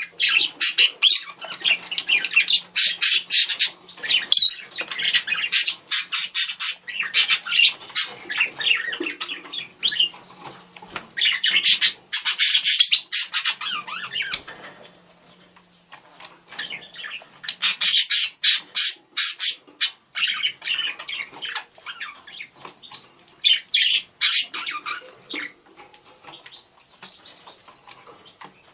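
Budgerigars chattering and calling to each other, with rapid chirps, warbles and squawks in bouts, and a short lull about halfway through.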